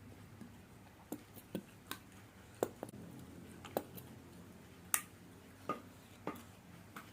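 Close-miked eating of spicy fried noodles with bean sprouts: about ten sharp, irregular clicks and crunches of chewing and mouth noises.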